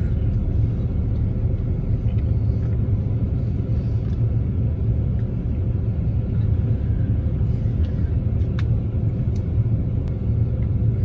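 Steady low rumble of a car idling, heard from inside the cabin, with a few faint clicks near the end.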